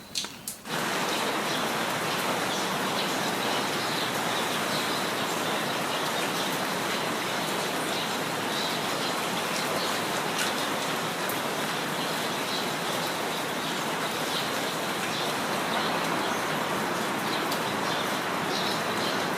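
Steady rain falling, starting abruptly less than a second in after a few scattered drips, with faint bird chirps over it.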